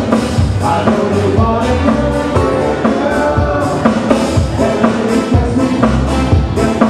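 Live band playing a song, with a steady drum-kit beat under bass and other instruments.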